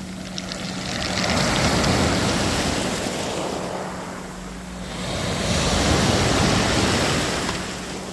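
Black Sea waves breaking and washing up the shore: two swells of surf about four seconds apart, each rising and falling away over a couple of seconds.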